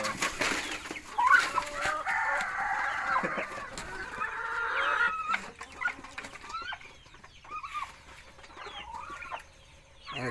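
Domestic fowl clucking and squawking, with a long drawn-out squawk over the first few seconds, then short scattered calls that grow quieter.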